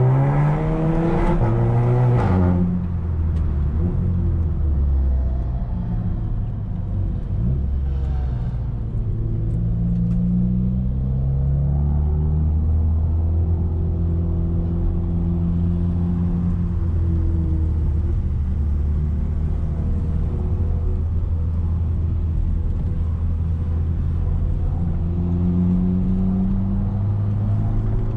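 Audi A3 2.0 TFSI turbocharged four-cylinder with a 2.5-inch downpipe and catback exhaust, revving up hard for the first couple of seconds, then dropping in pitch at a shift. It runs on at changing engine speed, steadies into a cruise midway and climbs in pitch again near the end.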